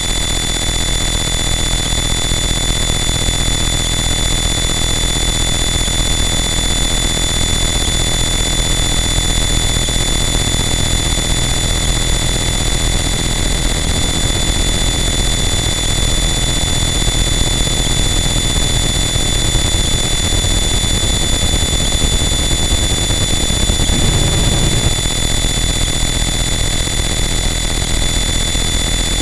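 Harsh noise wall: a loud, unchanging wall of dense distorted noise with several steady high whines over a heavy low rumble. The low end swells briefly a little before the end.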